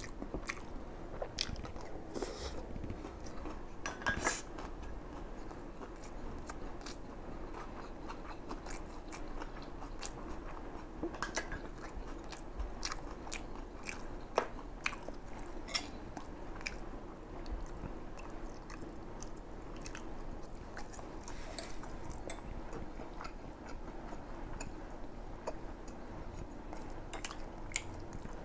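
Close-up chewing of a mouthful of fried rice, with irregular small sharp mouth clicks throughout and a louder one about four seconds in.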